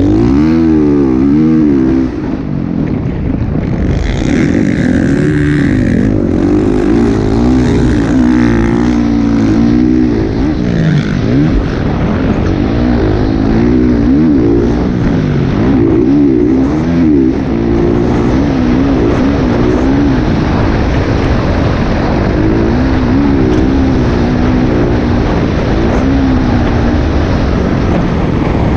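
Motocross dirt bike engine noise, the pitch rising and falling over and over as the throttle is opened and closed.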